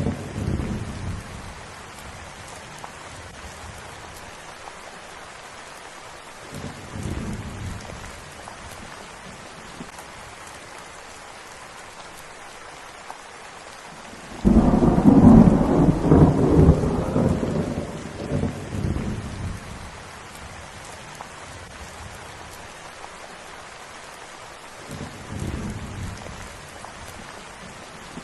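Steady rain falling, with rolls of thunder over it: a rumble dying away in the first second, a faint one about seven seconds in, a loud peal breaking suddenly about halfway through and fading over some five seconds, and a smaller rumble near the end.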